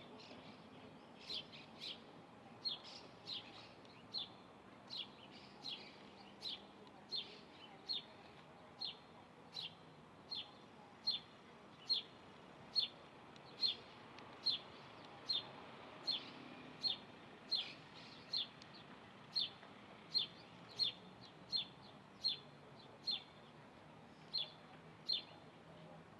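A bird repeating a short, high, sharp call over and over, about one note every three quarters of a second, at an even pace.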